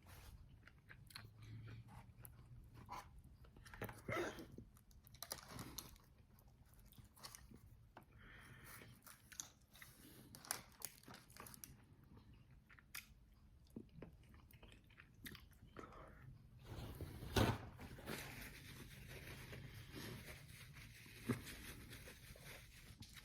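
A person biting and chewing extra-well-done fried chicken wings, with irregular crisp crunches and one louder crack about three-quarters of the way through.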